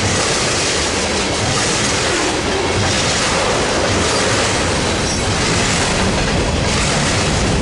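BNSF manifest freight train's cars rolling past close by: a loud, steady rumble and clatter of steel wheels on the rails, with a regular clack coming back about once a second.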